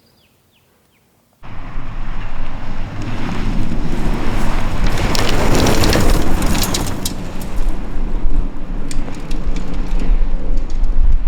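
Rally vehicle blasting past at speed on a sand and gravel stage: engine running hard under a heavy rush of spraying grit, swelling to a peak about halfway and easing off. It cuts in abruptly after a second and a half of silence.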